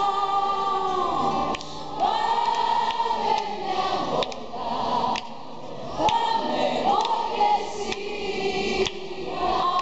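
Many voices singing a pop chorus together over live band accompaniment, in long sung phrases with short breaths between them: a concert audience singing along.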